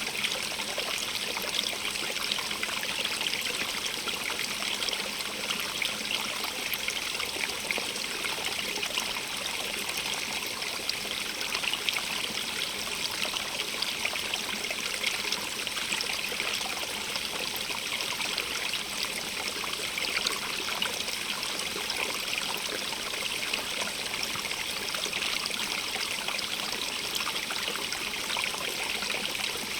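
Stream of running water, a steady splashing and trickling hiss with fine crackle, brightest in its upper range and unchanging throughout.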